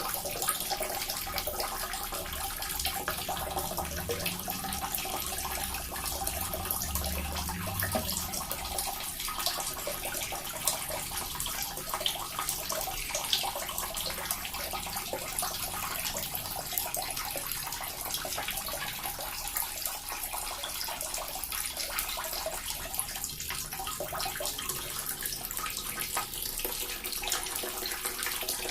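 Small water fountain splashing steadily: a continuous trickle and patter of falling water, with a faint low rumble for a few seconds near the start.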